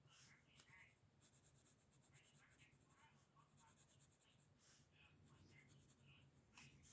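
Faint pencil strokes scratching on paper, in short irregular strokes.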